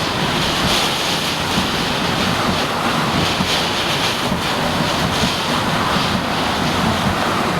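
Hurricane eyewall wind and heavy driving rain, a loud, steady rush, with gusts buffeting the microphone in an uneven low rumble.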